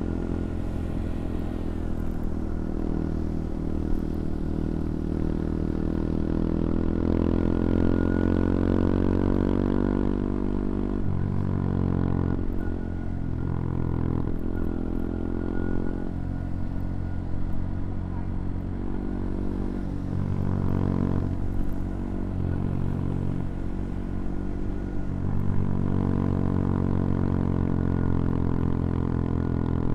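CFMoto Papio XO-1's small single-cylinder engine pulling under throttle while riding. Its note climbs steadily for the first third, drops sharply, then rises and falls several times as the rider rolls on and off the throttle and changes gear.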